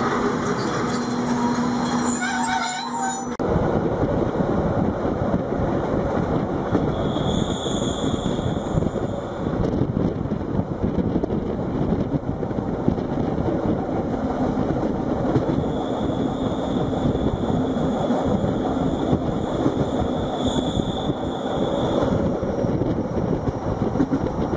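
Rhaetian Railway train running on metre-gauge track: a steady rail rumble, with high-pitched wheel flange squeal about 7 seconds in and again over a longer stretch later on. The sound changes abruptly about three seconds in.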